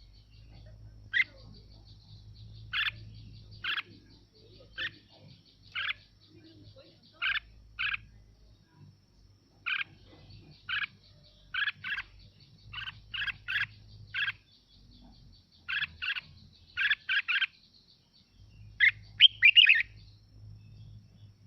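Red-whiskered bulbul (chào mào) singing in short, sharp, separate notes at irregular intervals, with a quicker jumble of notes near the end.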